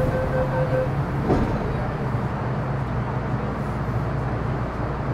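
Metro Cammell M-Train electric multiple unit with a GEC GTO chopper, running on the line, heard from inside the car: a steady rumble of wheels on track under a low motor hum. A higher steady chopper tone stops about a second in.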